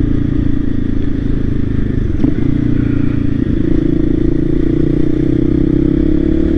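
Voge 300 Rally's single-cylinder engine running as the motorcycle is ridden, its note rising slowly over the second half, with a short knock about two seconds in.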